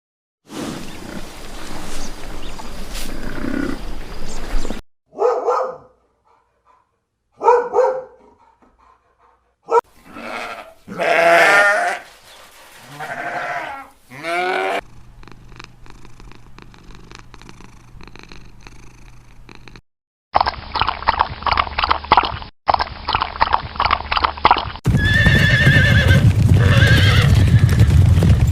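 A run of different farm animal calls, one short clip after another with abrupt cuts: a few short pitched calls, then a cluster of calls gliding up and down, then a rapid repeated series of sounds, and a loud call near the end.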